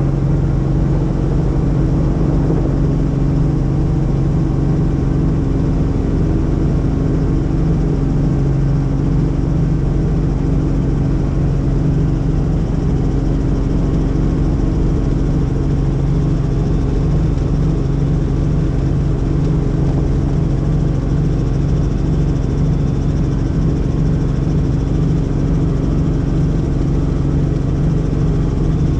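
Helicopter engine and rotor running steadily: a constant loud drone with a couple of steady low tones.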